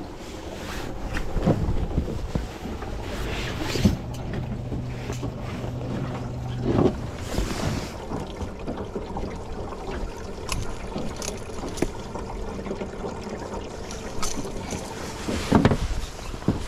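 Knocks and clatter of gear being handled in an aluminum fishing boat, over a steady low motor hum and wind on the microphone. The hum strengthens from about three seconds in to about seven seconds in.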